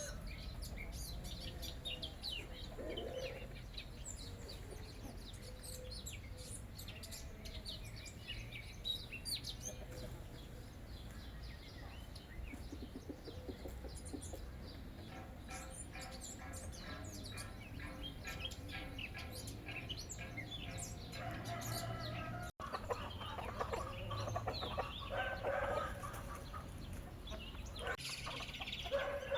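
Chickens clucking, with small birds chirping, over a steady low hum.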